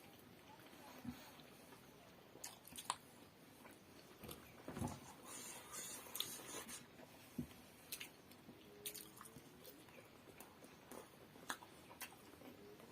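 Quiet chewing and biting of steamed momo dumplings, with soft scattered mouth clicks and a few sharper ticks.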